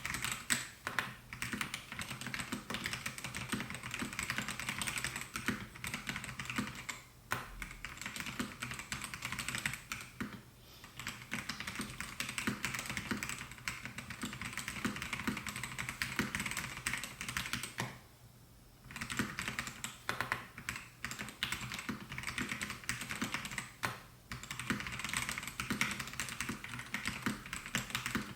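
Fast, continuous typing on a Melgeek Mojo68 mechanical keyboard with white switches: a dense run of key clacks. It breaks off briefly a few times, longest about eighteen seconds in.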